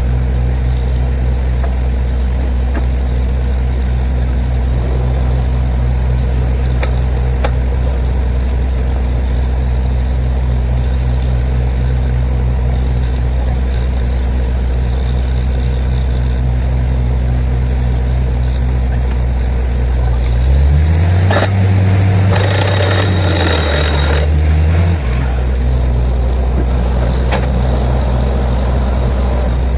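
Borewell drilling rig's engine running steadily, then revving higher for about four seconds with a rush of hissing noise, dropping back sharply near the end.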